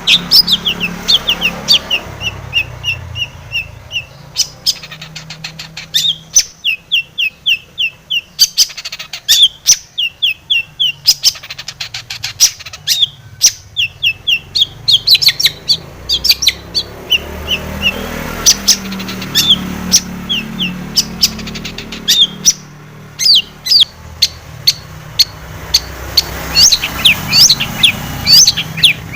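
Long-tailed shrike (cendet) singing a loud, fast chattering song: runs of short, sharp, downward-slurred notes repeated several times a second, broken by brief pauses.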